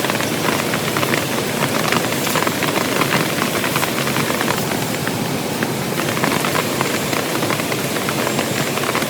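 Heavy rain falling steadily, with many separate drops hitting close by over an even hiss.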